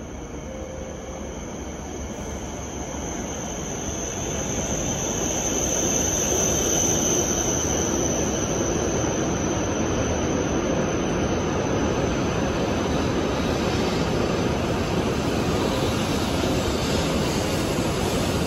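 E7 series Shinkansen pulling into the station, its running noise growing louder over the first six seconds as it approaches and then holding steady as the cars roll past while it slows. A high whine sounds over the rush, falling slightly in pitch and fading out about eleven seconds in.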